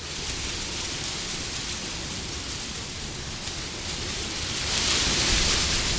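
Wind blowing as a steady rushing noise, swelling in a louder gust about five seconds in.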